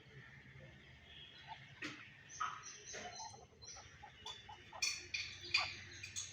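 Birds calling: a run of short chirps and squeaky calls, starting about two seconds in and busiest in the second half.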